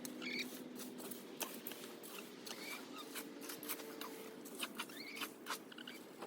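Chickens in a coop: short high chirps over a soft low murmur, with many sharp clicks and taps from pecking and scratching.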